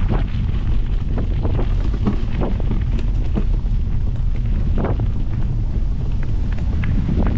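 Heavy wind buffeting the microphone, a steady loud rumble, with scattered short knocks and rattles over it.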